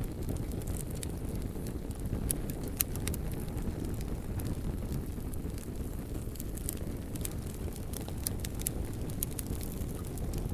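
Wood fire burning with a steady low rumble, dotted with sharp pops and crackles at irregular intervals.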